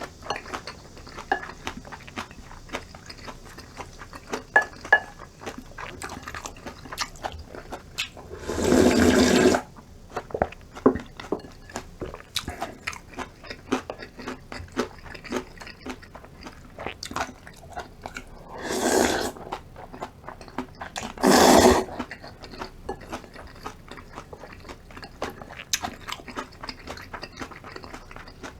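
Close-up eating of cold acorn-jelly rice soup: wet chewing and many small clicks and smacks throughout, with three louder slurps of the cold broth, one about a third of the way in and two close together about two-thirds through.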